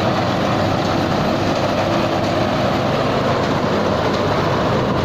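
Thai Seng rice combine harvester's engine running steadily under heavy load as the machine works through deep, sticky mud.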